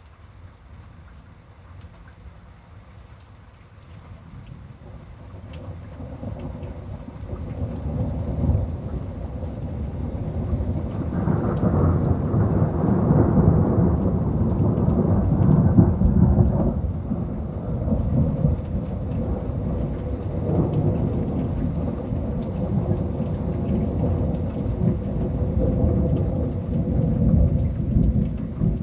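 A long roll of thunder: a low rumble that swells over several seconds to its loudest about halfway through, then keeps rolling. Rain is falling under it.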